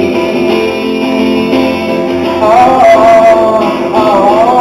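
Live song performance with guitar; about halfway in, a wordless held vocal note enters over the accompaniment.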